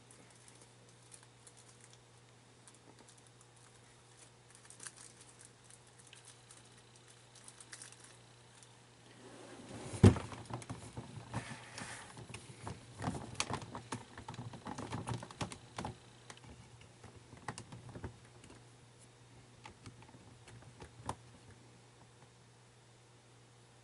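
Small parts being handled and fitted by hand: scattered light clicks, a sharp knock about ten seconds in, then several seconds of busy clicking and rattling that thins out again. These are most likely small gears being tried on a toy motor's shaft.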